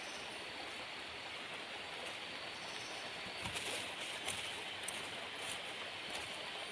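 Steady, even rushing hiss of outdoor forest ambience, with a few light clicks and taps in the second half.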